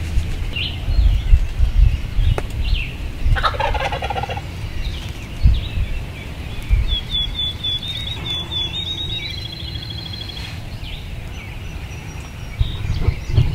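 A wild turkey gobbler gobbles once, a rattling call about three seconds in. Songbirds chirp and trill high above it, over a low rumble with a few thumps.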